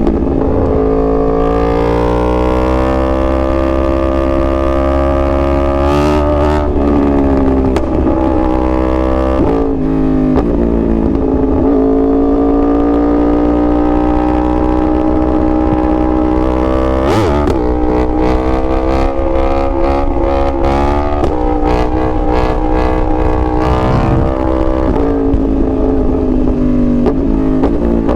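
2021 Yamaha R1's crossplane inline-four engine pulling hard through the gears. The pitch climbs and then drops sharply at each of several gear changes, with short sharp cracks at some of the shifts.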